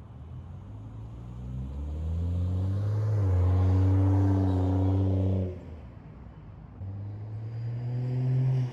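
Exhaust of a BMW 335xi's N55 single-turbo straight-six with the mufflers deleted, under throttle. The note climbs in pitch, dips once about three seconds in, is held loud and steady, then falls away at about five and a half seconds. It climbs again near the end and stops abruptly.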